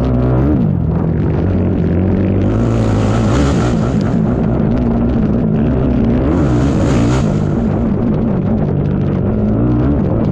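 ATV engine running at race pace, its pitch rising and falling with the throttle. Two rushes of hiss come about three and seven seconds in.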